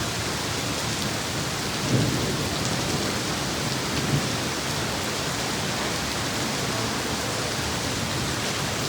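Heavy rain pouring steadily, an even hiss of downpour, with brief low rumbles of thunder about two and four seconds in.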